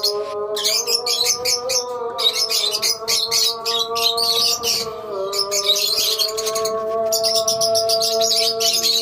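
A colony of lovebirds chirping continuously in rapid, high chatter. Under it runs a long, slowly wavering sung note from a call to prayer.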